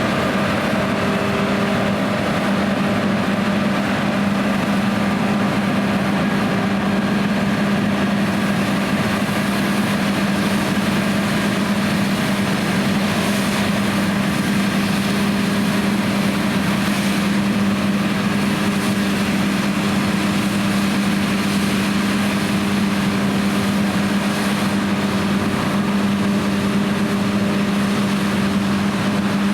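John Deere X9 1100 combine harvester running steadily while combining, a constant engine and machinery hum with a strong low tone and no change in speed.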